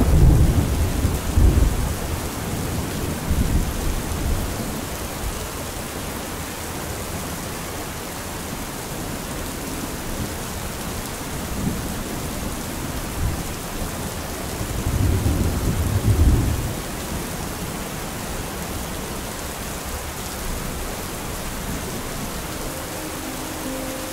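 Storm ambience of steady heavy rain with rolling thunder, the thunder swelling at the start and again about two-thirds of the way through. Near the end a few held musical notes come in over the rain.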